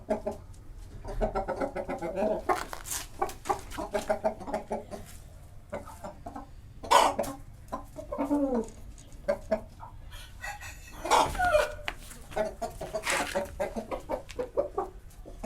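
Hijazi chickens clucking in repeated short runs, with a few louder, longer calls among them, a rooster crowing.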